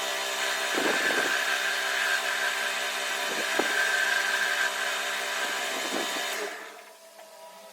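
A power tool running steadily at full speed, with a high whine over a broad hiss and a few light knocks, then winding down and stopping about six and a half seconds in.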